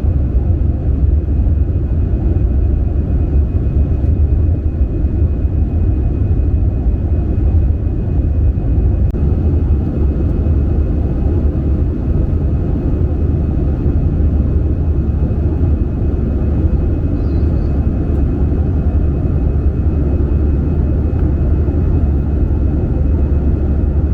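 Steady cabin noise inside an Airbus A320 airliner in flight: a loud, even low rumble of engines and airflow, with faint steady whine tones above it.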